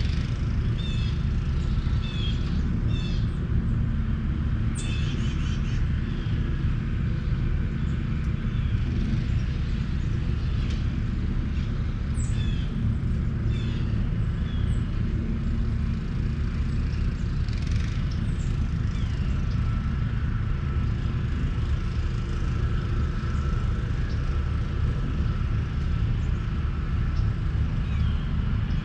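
Outdoor ambience of birds chirping and calling in short bursts, busiest in the first half, over a steady low rumble.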